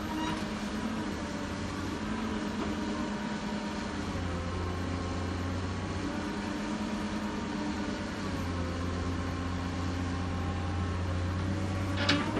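Diesel engine of heavy earthmoving machinery running steadily, its low drone swelling and easing over several seconds, with a brief high squeal near the end.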